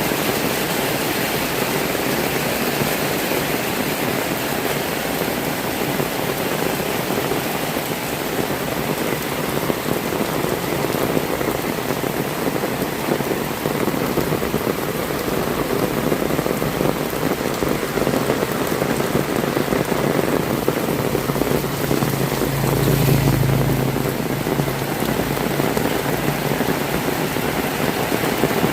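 Heavy rain falling steadily, a dense even hiss of drops on the ground and surfaces. About three-quarters of the way through, a low hum swells and fades under the rain.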